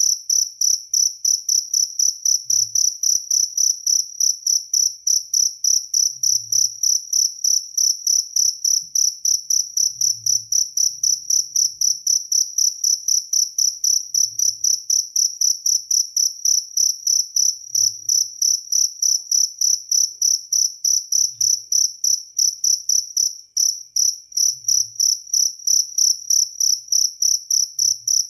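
Jaliteng cricket chirping steadily: a high, shrill chirp repeated evenly about three to four times a second.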